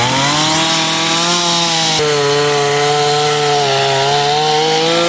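Carving chainsaw revving up to full throttle and running at a high, steady pitch as it cuts into the wooden log, the note sagging slightly under load. It begins to drop back at the very end.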